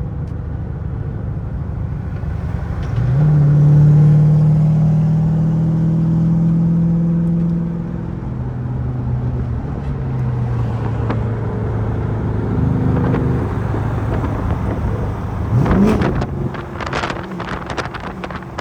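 Car engine running: its pitch steps up about three seconds in and holds steady under load, eases back around eight seconds, then rises in a quick rev near the end, followed by wind buffeting the microphone.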